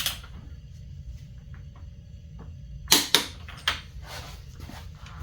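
Click-type torque wrench tightening a dirt bike's steering stem nut. There is one sharp click at the start, then three more about three seconds in as the wrench reaches its set torque.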